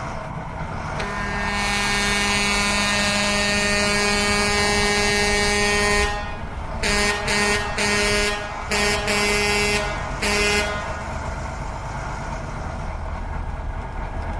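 A vehicle horn sounding one long steady blast of about five seconds, then a run of short toots, over a steady low engine rumble.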